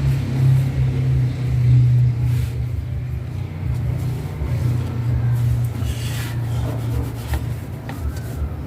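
Steady low rumble of an idling engine, pulsing unevenly, with a few light clicks in the second half.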